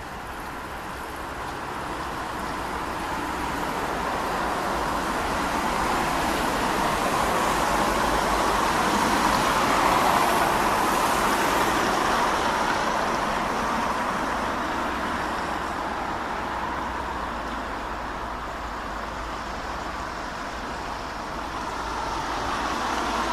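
Rushing noise of a passing vehicle that swells to a peak about ten seconds in and fades, then rises again near the end.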